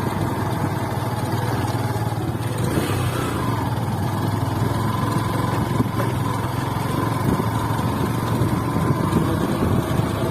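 Motorcycle engine running steadily under way, with a continuous low drone and road noise.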